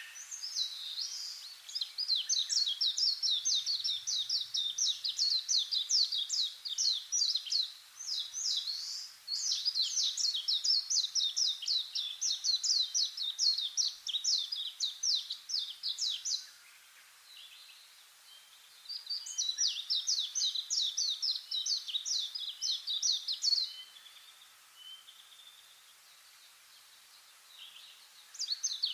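A bird calling in fast, steady runs of high chirps, several a second. The runs stop for a few seconds twice and start again near the end.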